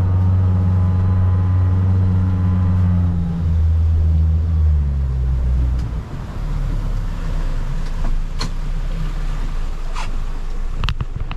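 Boat engine running steadily, then throttled back in two steps a few seconds in and dropping away to a low rumble, leaving water and wind noise. A few sharp knocks near the end.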